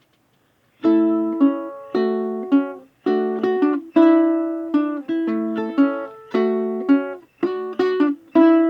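Ukulele strumming chords in a steady rhythm as a song's introduction, starting about a second in, each chord ringing and then fading.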